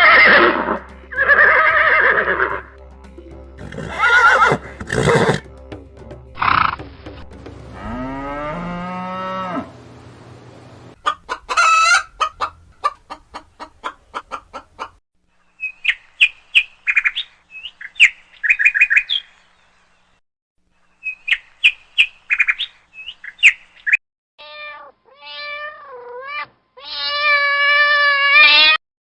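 A string of different animal calls one after another, the middle part being rapid bird chirps in short bursts, with a long pitched call near the end.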